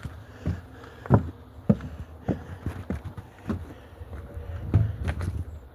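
Irregular knocks and clunks, about a dozen, over a low steady rumble; no engine running.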